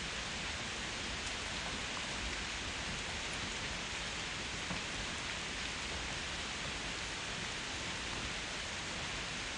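Steady rain: an even hiss with no single drops or thunder standing out.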